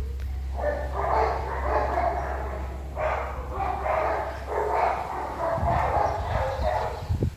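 Small pet dogs, pinschers, barking and yapping in three rapid runs, over a steady low hum.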